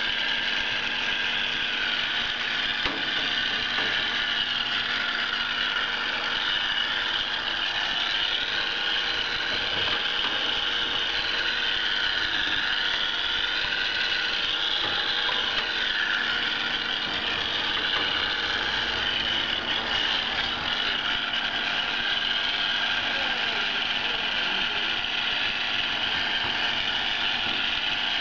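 Hair dryer running steadily, blowing air into a desktop PC case to clear out dust.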